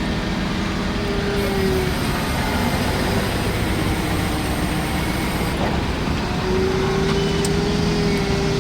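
A truck's engine running steadily, with a faint steady whine that fades about two seconds in and returns near the end.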